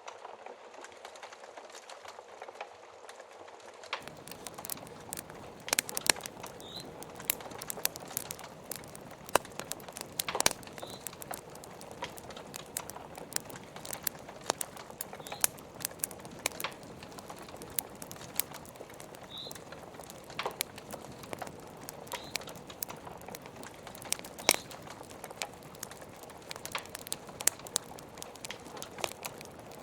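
Wood fire crackling, with frequent irregular sharp pops and snaps over a steady hiss of rain. The background hiss fills out deeper about four seconds in, and a few brief high squeaks sound now and then.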